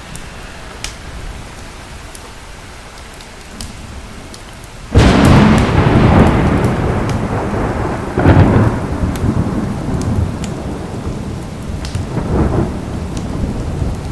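Steady rain with occasional sharp fire-crackle pops. About five seconds in, a sudden loud thunderclap breaks, then rolls on as rumbling thunder that swells twice more before fading back.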